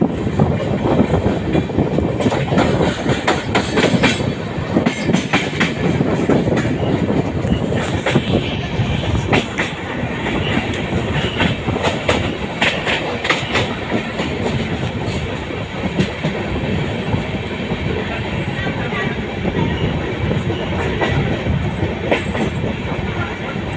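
Passenger train coach running at speed, heard from its open door: a steady rumble of wheels on the rails with frequent sharp clicks and clacks, busiest in the first half.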